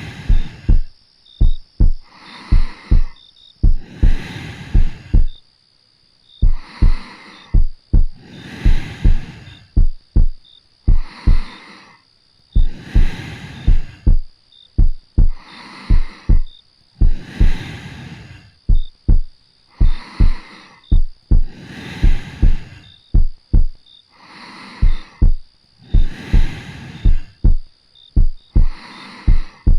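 Heartbeat, a low double thump (lub-dub) about once a second, under slow, soft breathing that swells and fades every couple of seconds.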